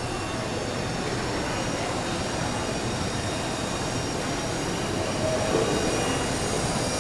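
Walkera Lama coaxial RC helicopter in flight: its electric motors and rotors giving a steady whirring whine with a few thin high tones over a hiss.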